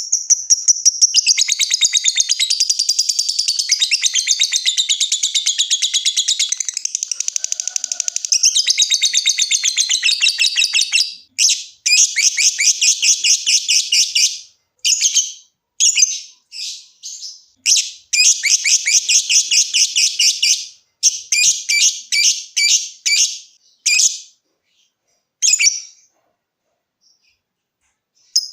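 Lovebird chattering in a fast, high-pitched stream of chirps: one long unbroken run for about the first eleven seconds, then shorter bursts separated by brief pauses, stopping near the end.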